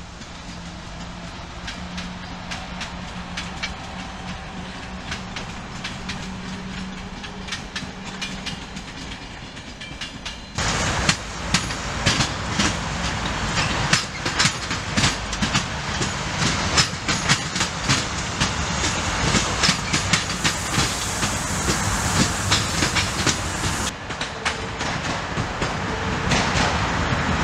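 Passenger trains passing on electrified track. First a steady rolling rumble with a low hum; then, about ten seconds in, a louder, closer stretch of wheels clacking quickly over rail joints and points; near the end a locomotive rumbling past.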